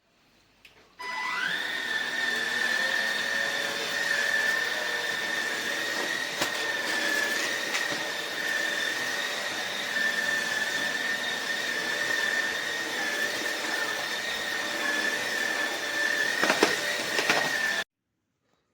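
Fieety cordless stick vacuum's motor switched on, its whine rising in pitch as it spins up about a second in, then running steadily at one pitch and cutting off suddenly near the end.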